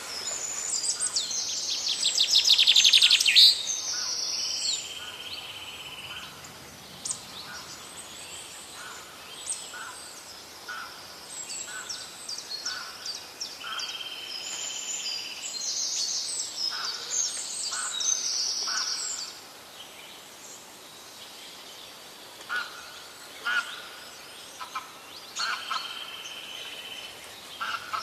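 Several songbirds singing at once, phrases overlapping and repeating, with a loud rapid trill about three seconds in.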